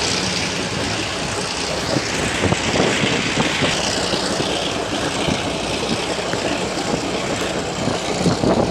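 A passenger coach running on metre-gauge track, heard from an open carriage window: a steady rumble and rush of air with irregular wheel clacks and knocks from the rails.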